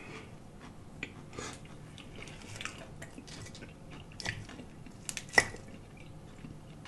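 Close-miked chewing and wet mouth sounds, with a few short clicks of a metal fork picking salad from a glass bowl; the sharpest click comes a little past five seconds in.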